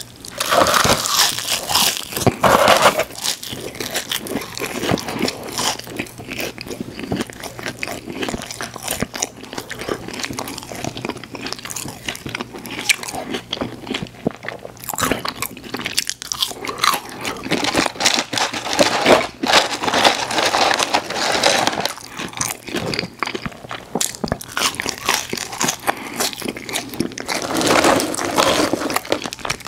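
Close-miked chewing and biting of crispy french fries and breaded chicken nuggets dipped in cheese sauce: continuous crunching with repeated crackly bites.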